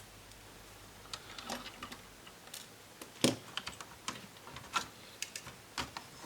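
Scattered light clicks and taps of a small hand tool against the laptop's plastic and metal parts while its cooling fan is being removed, at irregular intervals, with the sharpest click about three seconds in.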